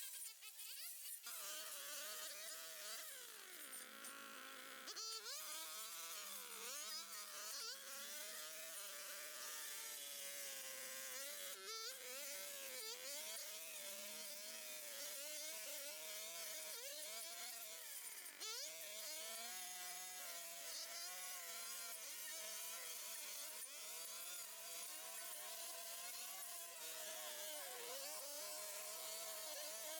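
Small petrol engine of a garden tool whining steadily, its pitch dipping and recovering again and again as the work loads it.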